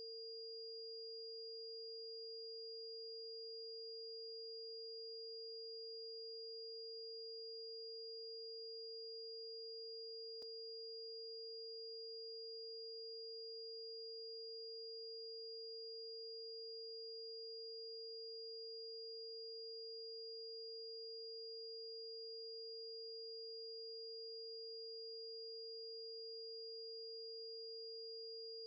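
Two steady electronic sine tones held without change, one just under 500 Hz, matching the scale's 460.8 Hz B-flat root, and a much higher one near 5 kHz. A single click sounds about ten seconds in.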